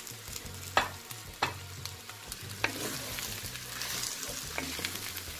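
Diced tomatillos frying in oil in a clay cazuela over high heat, sizzling steadily while a wooden spoon stirs them. A few sharp knocks of the spoon against the clay pot, two in the first second and a half.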